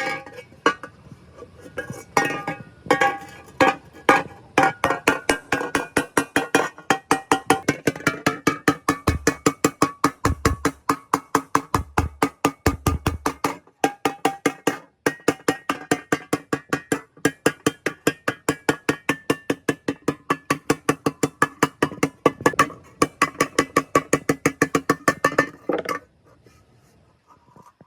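A hammer striking a ringing metal part over and over, about four blows a second, with the metal ringing between blows. The hammering stops about two seconds before the end.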